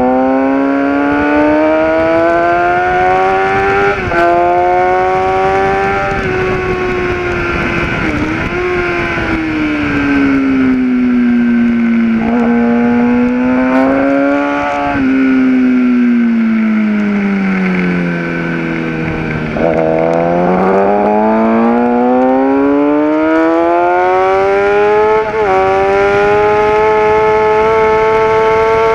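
Kawasaki ZX-10R inline-four sportbike engine at track speed: its pitch climbs hard through the gears, stepping down at quick upshifts about 4 seconds in and again near the end. It falls away twice as the bike slows for corners, before pulling up again. Steady wind rush runs under it throughout.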